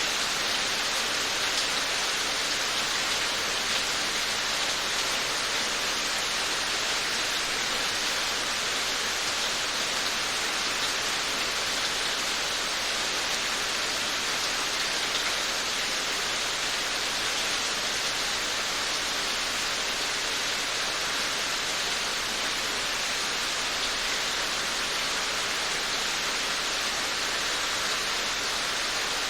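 Steady rain falling, an even hiss of drops with no distinct patter or thunder.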